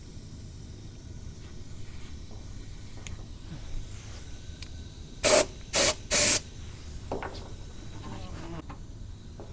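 Air-fed underseal spray gun with a Draper nozzle, fired from the shop compressor in three short bursts of hissing spray about halfway through, each a fraction of a second long.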